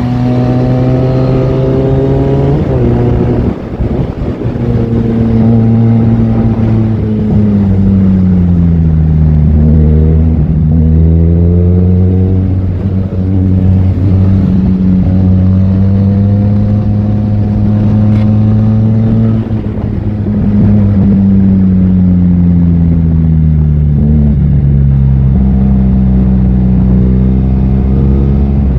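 Benelli 502C's parallel-twin engine under way, its pitch climbing under acceleration, dropping at a gear change about two and a half seconds in, falling as it slows around ten seconds and again in the last few seconds, and holding steady while cruising in between.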